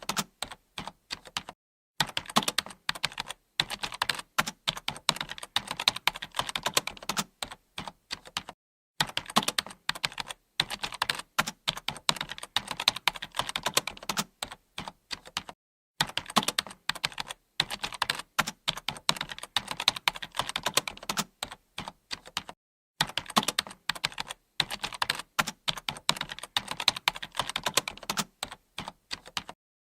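Computer keyboard being typed on continuously, fast runs of key clicks broken by brief pauses every few seconds.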